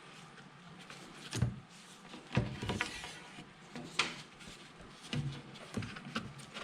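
Hand work on parts in an engine compartment: several separate knocks and short clattering sounds, the loudest a little over a second in, about two and a half seconds in and about four seconds in.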